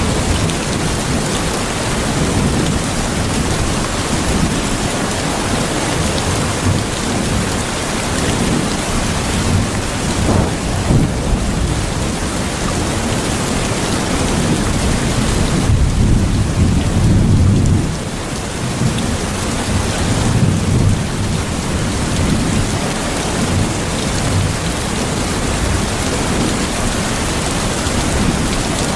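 Steady heavy rain with low rolling thunder, the rumble swelling about halfway through and dropping back a little later.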